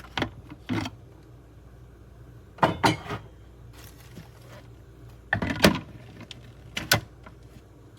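Plastic and glass clicks and knocks as a blender jar is seated on its base and the controls are worked, in a few short clusters. The motor does not start, because the blender is not working.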